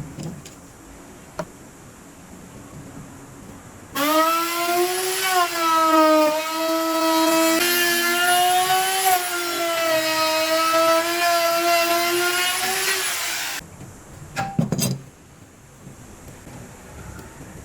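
Electric woodworking power tool running under load for about ten seconds, a steady whine over hiss that starts and stops abruptly; a few knocks follow just after it stops.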